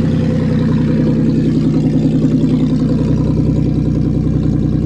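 Pontiac car engine running steadily just after a cold start, at about 3 °C after months of sitting and with no choke.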